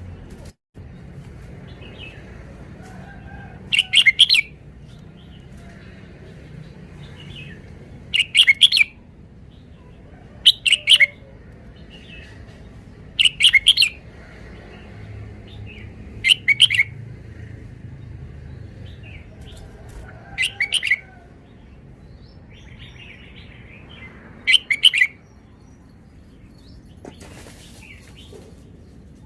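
Red-whiskered bulbul singing short, loud phrases, seven in all, spaced a few seconds apart, with faint softer chirps between them.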